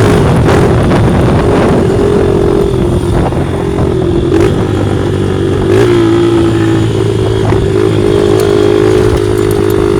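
Straight-piped 2004 Honda CRF80F's four-stroke single-cylinder engine running loud and mostly steady, its pitch briefly dipping and rising a couple of times.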